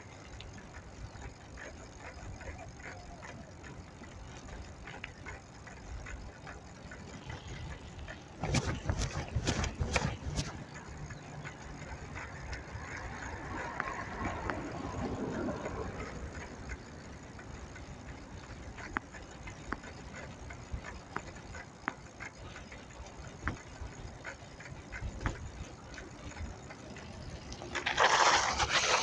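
Street noise heard from a bicycle in motion: a steady background rumble, with a quick run of sharp rattling knocks about nine seconds in and a louder rush of noise near the end.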